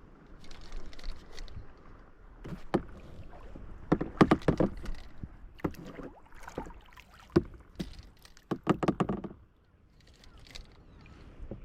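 Knocks and clattering inside a small boat's hull: bursts of rapid hard taps, loudest in two clusters about four seconds in and near nine seconds in, over low rumbling noise.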